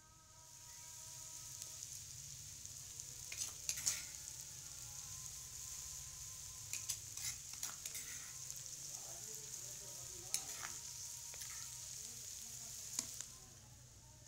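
Chopped green vegetables sizzle in hot oil with fried onions and spices in a karahi. The sizzle starts about half a second in, as they go into the pan. A spoon scrapes and clinks against the pan several times, and the sizzle fades near the end.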